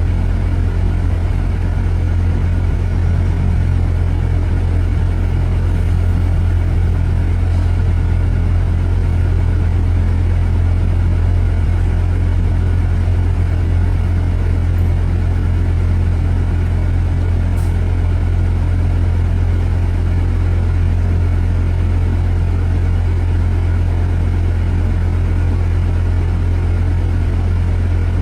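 A motor vehicle's engine running with a steady, loud low rumble that does not change.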